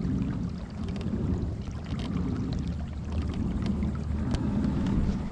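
Wind rumbling on the microphone over water, with a few faint splashes from kayak paddle strokes.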